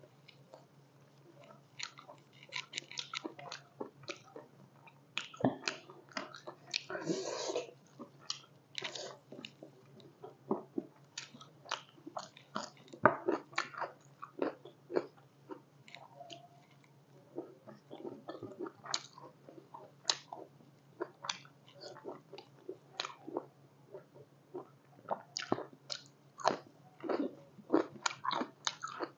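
A person chewing and biting big pieces of spicy pork curry close to the microphone: irregular wet mouth clicks and smacks, with fingers working food on the plate.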